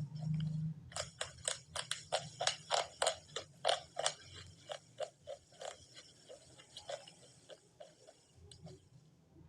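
Close-up chewing of crunchy baked clay pot pieces: a steady run of sharp crunches, about two to three a second, thinning out toward the end.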